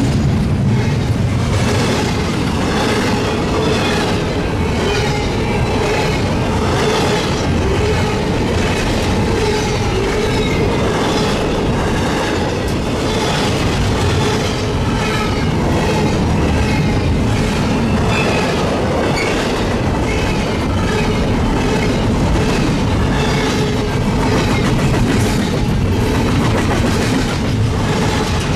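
Freight train cars rolling past, their wheels clicking in a steady, even rhythm over the rail joints above a constant rumble.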